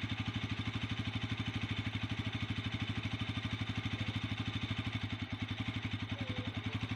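Bajaj Pulsar 200cc single-cylinder motorcycle engine running steadily at low revs, a chugging exhaust beat of about a dozen pulses a second with no change in pitch.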